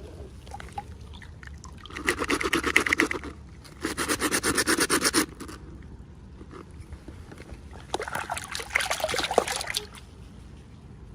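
Packaging being handled and unwrapped: three bursts of crinkling, crackling rustle, the last near the end.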